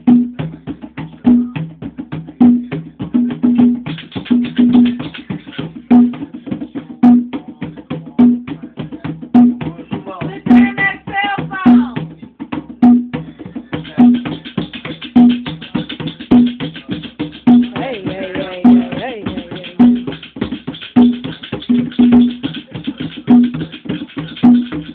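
Drums played in a dense, fast rhythm of rapid strikes over a steady low beat that falls about once a second. A voice is briefly heard over the drumming twice, about ten seconds in and again about eighteen seconds in.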